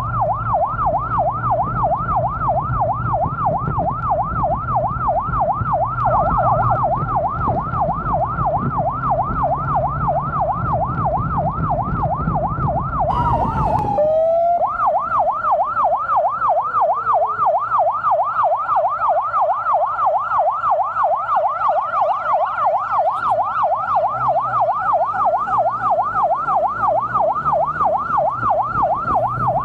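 Emergency vehicle siren in a fast warbling yelp, rising and falling a few times a second, with a low engine rumble beneath it. About halfway it breaks off with a falling tone, then the same rapid warble starts again.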